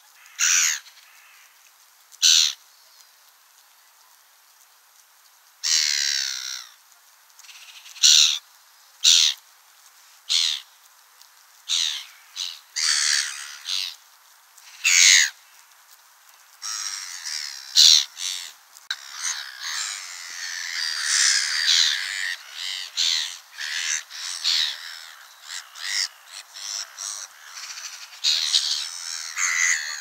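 Birds calling: short separate calls every second or so at first, then denser, overlapping calling through the second half.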